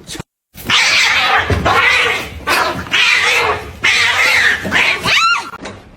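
A cat yowling (caterwauling): about five harsh, drawn-out cries, the last one rising and falling in pitch.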